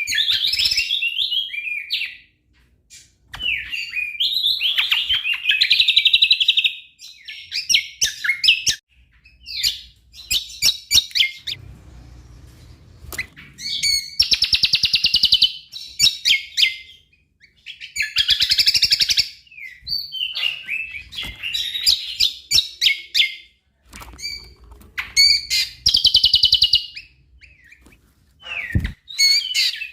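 Cucak kombo singing full song: bursts of fast, varied, chattering phrases about one to two seconds long, repeated every few seconds, with sharp single chips between them.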